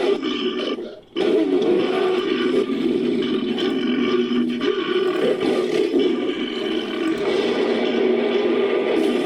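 Designed monster vocalisation, layered from animal and movie-creature roars: a long, low, rough growling roar. It dies away about a second in, then starts again and carries on without a break.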